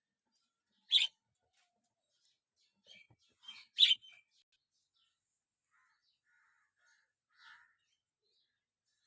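A bird chirping in short, separate calls: a sharp call about a second in, a quick cluster a few seconds in, and a fainter call near the end.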